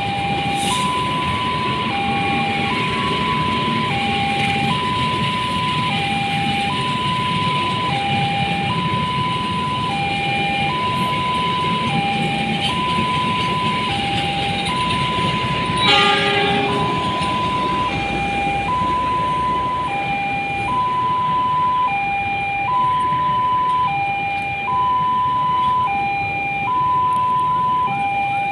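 Railway level-crossing warning alarm sounding continuously, alternating between two tones about once a second, over a steady rumble of traffic or train noise. A brief louder pitched blare cuts in about halfway through.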